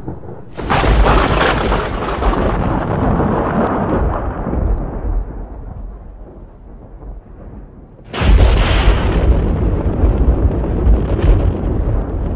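Two thunderclaps: a sharp crack about half a second in that rolls into a low rumble fading over several seconds, then a second loud crack about eight seconds in that rumbles on.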